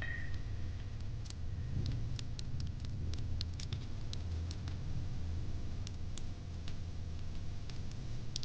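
Wood fire in a fire pit crackling: irregular sharp pops and snaps, a few a second, over a steady low rumble of the flames.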